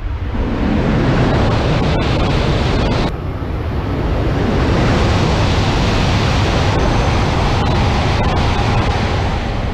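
Shinkansen E3-series Tsubasa trains passing through stations at speed: a loud, steady rush of air and wheel rumble. It changes abruptly twice, about two and three seconds in, as one pass gives way to the next.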